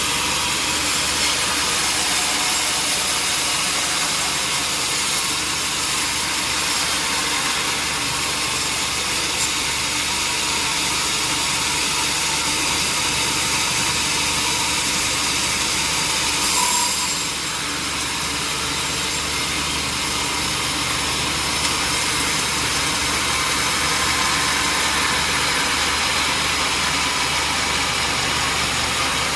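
Sawmill machinery running steadily: an engine drone under a constant high hiss, briefly louder about two-thirds of the way through.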